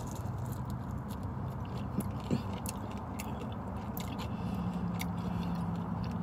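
A person chewing fried breaded shrimp up close: wet mouth clicks and soft smacks scattered through, over a steady low hum.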